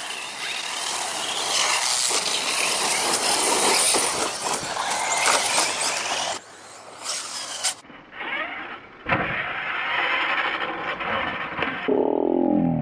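Radio-controlled electric off-road truck driving hard on a dirt track, its brushless motor whining and its tires churning dirt, cutting in and out a few times. Near the end a motor whine falls steeply in pitch and stops as the truck slows.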